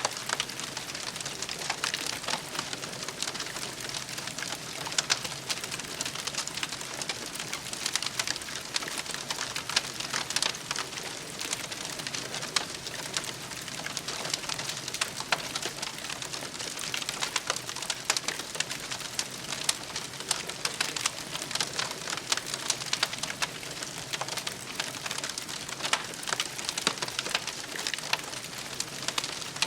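Campfire crackling steadily, with dense small pops and snaps and an occasional louder crack.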